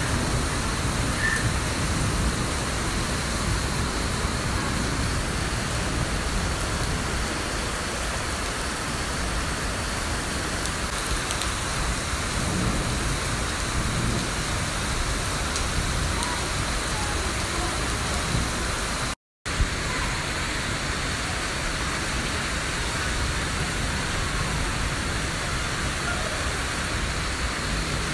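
Steady rain falling, an even unbroken hiss, that cuts out for a split second about two-thirds of the way through.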